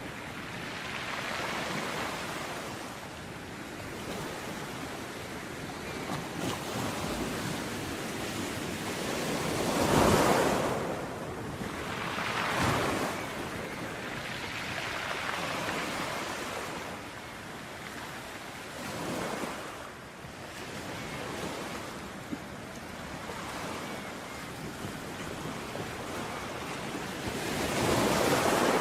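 Sea waves washing onto a shore. The surf swells and recedes every few seconds, with the biggest breakers about ten seconds in and again near the end.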